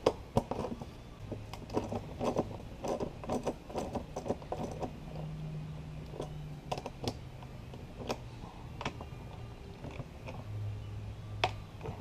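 Scattered light clicks and knocks of hands and tools working intake parts loose, with a faint low hum coming and going underneath.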